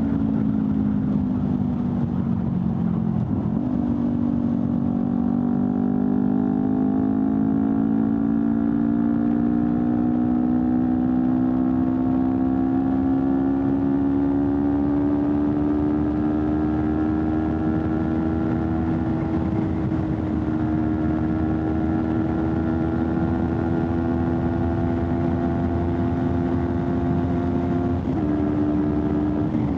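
Honda CBR250RR parallel-twin engine running through an Akrapovic slip-on exhaust on the road. Its note sags, then jumps up sharply about three seconds in as a gear is dropped. It climbs slowly as the bike pulls for most of the stretch, then steps down briefly near the end.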